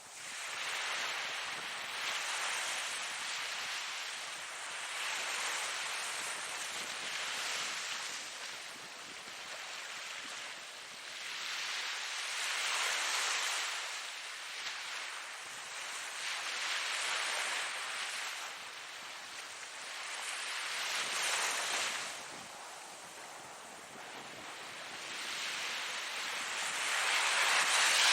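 Ocean surf: waves breaking and washing in one after another, the sound swelling and falling away every few seconds, with the biggest surge near the end.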